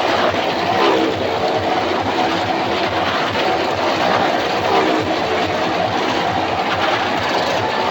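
Motorcycle engines running continuously around the wall of a Well of Death drum, their pitch rising and falling over a steady rumble.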